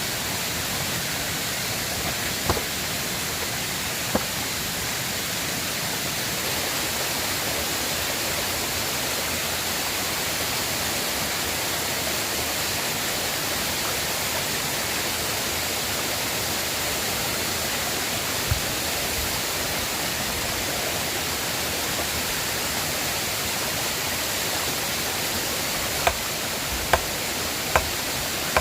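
A river rushing steadily, an even hiss of flowing water, with a few sharp snaps scattered through it and several close together near the end.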